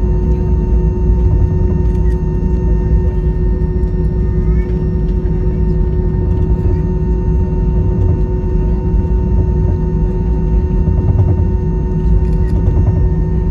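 Airbus A320-200 cabin noise: a loud, steady rumble from the jet engines with a steady whine on top, unchanging in pitch.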